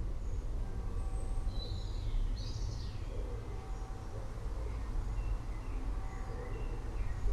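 Forest birds chirping and calling over a steady low rumble, with one louder call about two to three seconds in.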